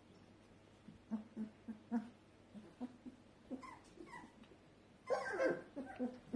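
A litter of young puppies whimpering and squealing in short, separate calls, with a louder cluster of overlapping squeals about five seconds in.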